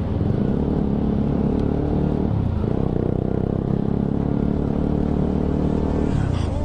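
Motorcycle engine running under steady throttle from the rider's own bike, the revs dipping briefly about two and a half seconds in and falling away near the end.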